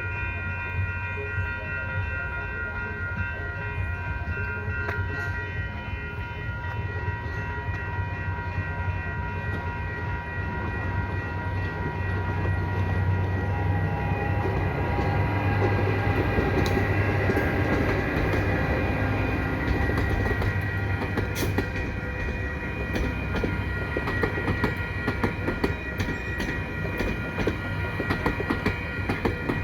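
Exo commuter train, an ALP45DP locomotive hauling CRRC coaches, passing a level crossing. The locomotive's low rumble builds to a peak about halfway through, then rapid wheel clicks over the rail joints follow as the coaches go by. Steady ringing tones from the crossing warning bells sound throughout.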